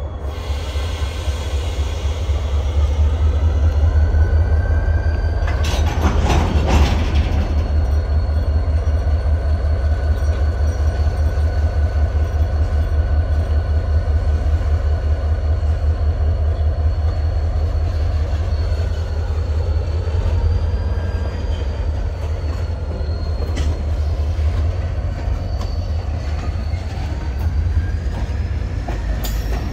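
Utah Railway freight train rolling past: a steady low rumble of locomotives and cars, with long high wheel squeals that drift slowly in pitch. There is a brief louder clatter about six seconds in.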